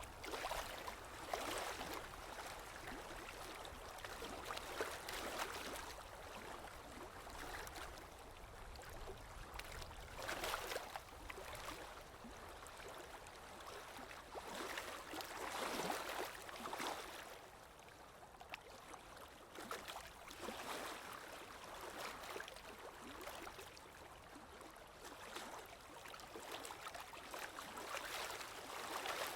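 Small sea waves washing in, a steady rush of water that swells and fades every few seconds.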